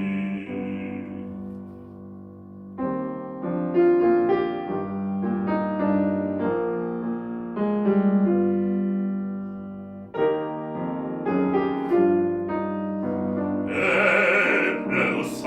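Solo piano accompaniment playing an instrumental passage of chords and single notes between sung lines, starting from a fading held chord. A male singing voice comes back in near the end.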